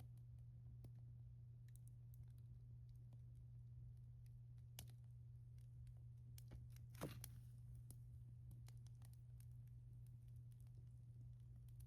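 Wood fire crackling faintly: scattered small snaps and ticks, with one louder pop about seven seconds in, over a steady low hum.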